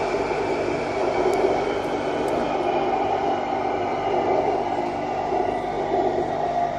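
BTS Skytrain electric train running along the elevated line, heard from inside the car: a steady running noise with a constant whine over it.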